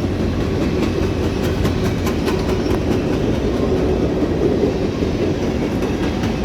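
Long freight train rolling past at close range: a steady rumble of railcars, with wheels clicking over the rail joints.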